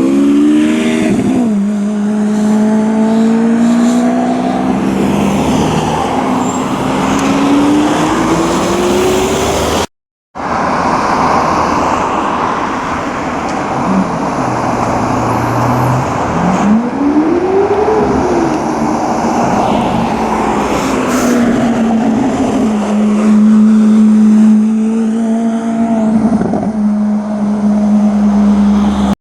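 Lamborghini Aventador V12 revving up, its pitch climbing in the first seconds, then holding a steady note. After an abrupt cut about ten seconds in, the engine swells up and back down once midway, then settles into a steady drone again.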